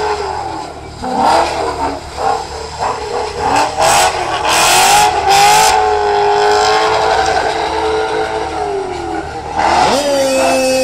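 Drift car's engine revving hard, its pitch repeatedly climbing and dropping as the car slides. A few short bursts of hiss come around four to five and a half seconds in, and near the end the engine holds one steady high note.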